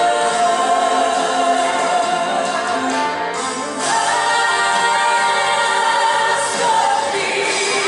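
Group of voices singing a gospel worship song together, holding long notes, with a new phrase starting about four seconds in.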